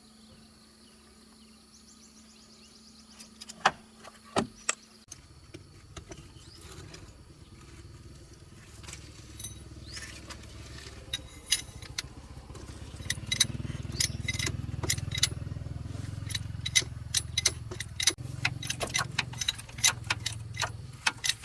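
A low engine or motor hum starts about five seconds in and grows louder partway through, under frequent light metallic clicks and clinks.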